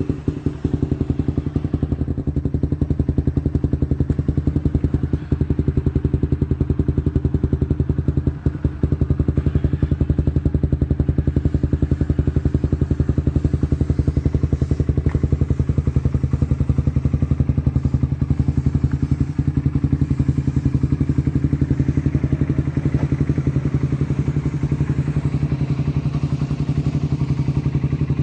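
Suzuki Satria FU's single-cylinder 150 cc four-stroke engine idling steadily through a CLD Racing aftermarket racing exhaust, with a fast, even exhaust pulse.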